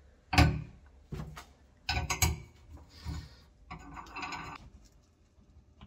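A series of knocks and clunks from car parts being handled, the loudest about a third of a second in, with a short rattling scrape around four seconds in.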